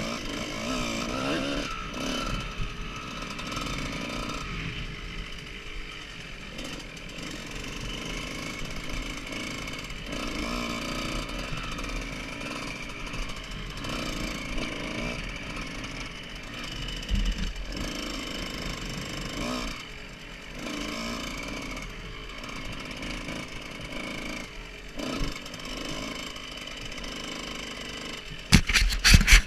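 Motocross bike engine running and revving up and down as the bike is ridden. Loud buffeting knocks come in near the end.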